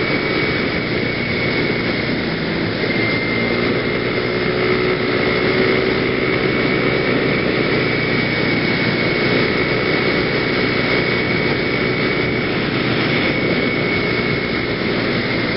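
Genuine Buddy (PGO BuBu) 125cc scooter engine running steadily at cruising speed, heard from a helmet camera along with rushing air, with a steady high whine held throughout.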